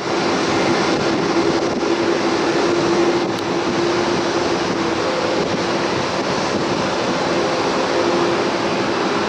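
Jet engines of an Airbus A340 running, a loud, even roar with a steady low hum through it.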